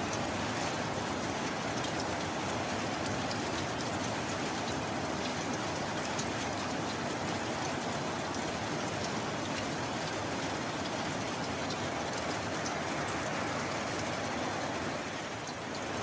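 Steady rain falling: a dense, even hiss with scattered sharper drop ticks, dipping briefly in level near the end.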